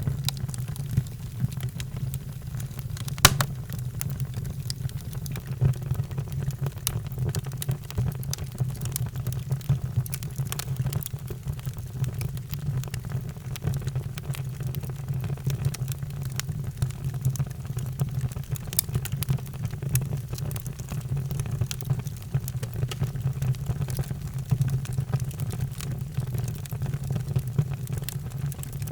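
Wood fire crackling in a fireplace: a steady low rumble with frequent small pops and one sharp, louder pop about three seconds in.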